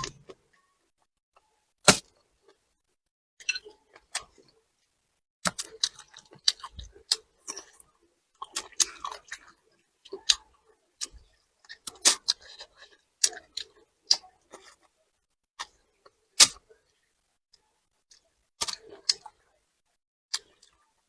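Close-up eating sounds: chewing, with irregular sharp clicks and crunches scattered through and quiet pauses between them.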